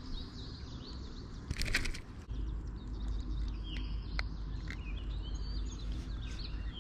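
Small birds chirping and calling in the background. There is a brief crackling rustle about a second and a half in, and a low rumble starts about two seconds in.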